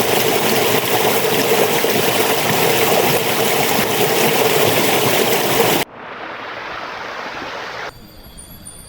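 Rushing stream water, loud and steady, that cuts off abruptly about six seconds in to a quieter rush of water. Near the end this gives way to a quiet background with faint, steady, high insect calls.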